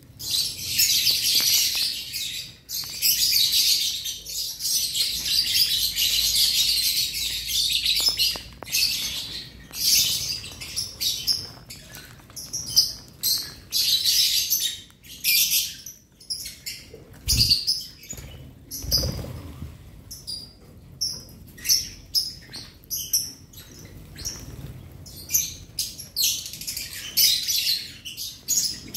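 A flock of lovebirds chattering with shrill chirps. The chatter is dense for the first several seconds, then breaks into short, scattered bursts. Two dull low thumps come a little past halfway.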